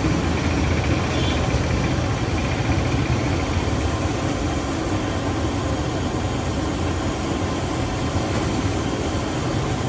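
Steady low engine-like rumble with street background noise.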